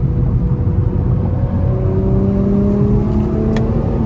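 Car engine and road rumble heard from inside a moving car on the highway, the engine note climbing slowly in pitch over the second half. A single sharp click about three and a half seconds in.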